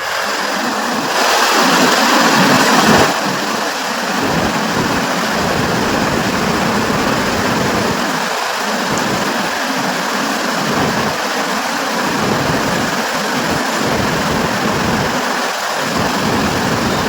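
Rushing whitewater of a river rapid, a steady roar of water that surges louder about one to three seconds in.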